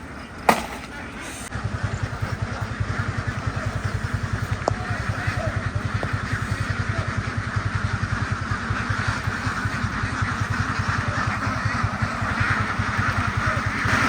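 A sharp click about half a second in, then an engine starts up about a second and a half in and runs steadily with a rapid, even low pulse.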